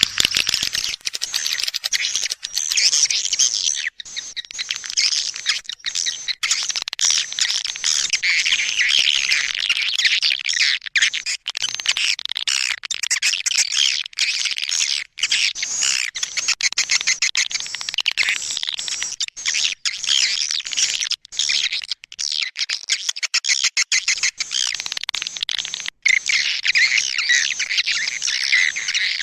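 Swiftlet call recording used as a lure track for swiftlet houses: a dense, continuous chatter of high chirps and twitters from many birds, with quick clicking notes throughout.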